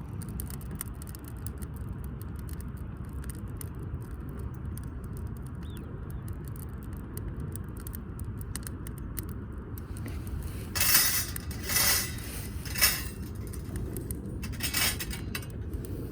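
Metal clinking and jangling in four short bursts, starting about two-thirds of the way in, over a steady low rumble.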